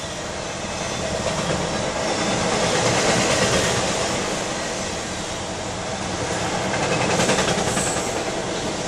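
Freight cars rolling past at close range: a continuous rumble and rattle of steel wheels on the rails, swelling twice as cars go by.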